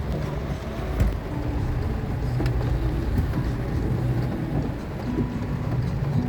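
Heavy rain falling, with a motor vehicle's engine running low underneath it. There is a sharp knock about a second in.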